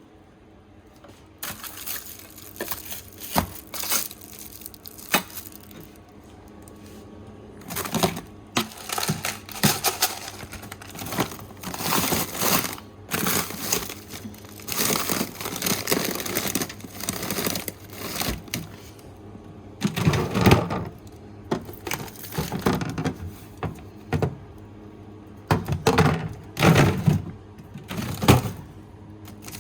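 Plastic food packaging crinkling and containers clacking while food is handled and sorted in a refrigerator and freezer: an irregular string of rustles and short clicks.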